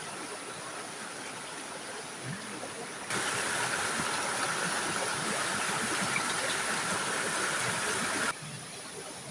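River water flowing over rocks, a steady rushing. It turns suddenly louder about three seconds in and drops back just as suddenly near the end.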